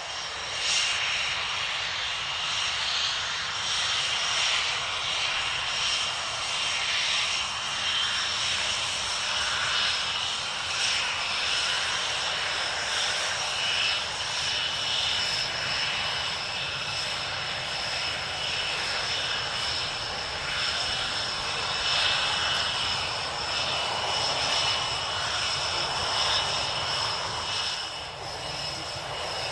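Panavia Tornado jets' RB199 turbofan engines running steadily at low power: a continuous high whine over a rushing jet noise that rises and falls a little, with no flypast swell.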